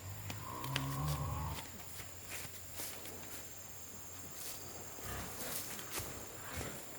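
A farm animal's low, drawn-out call lasting about a second and a half at the start, followed by scattered light taps and clicks.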